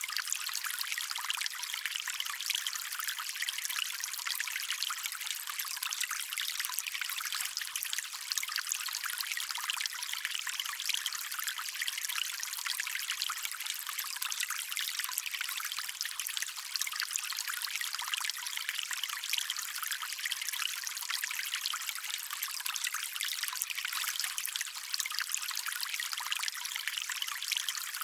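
Shallow stream water trickling and running steadily over stones, a continuous even splashing hiss with little low rumble.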